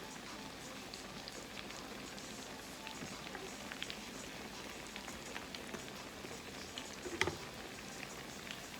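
Croquettes frying in hot oil in a pan: a steady sizzle with scattered small crackles and pops, and one sharp knock about seven seconds in.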